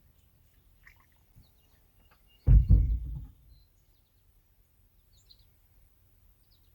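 A heavy low thump, doubled in quick succession about two and a half seconds in, against faint bird chirps.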